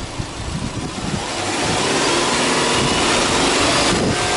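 Subaru Legacy 2.0GT's turbocharged flat-four engine running with the bonnet open. About a second in it swells louder and then holds at a higher, steady level, with a brief dip near the end.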